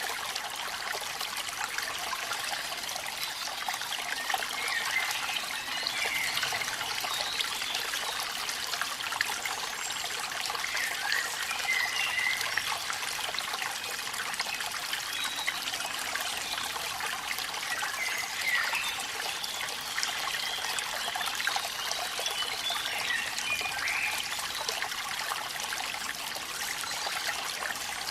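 Steady trickling and splashing water, with a dense patter of small drips over it: a rainy-night waterfall. A few brief high chirps come through now and then.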